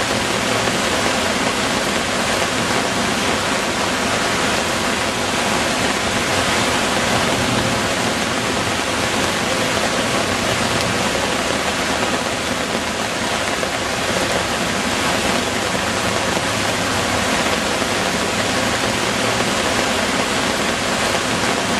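Heavy rain pouring down, a dense steady hiss with no letup.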